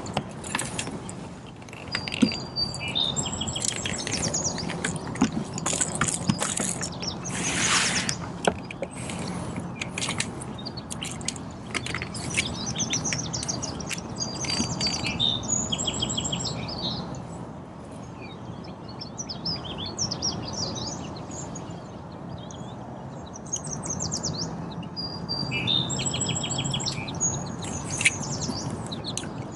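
Songbirds singing over and over in short high trills and chirps, with scattered sharp clicks and knocks in between.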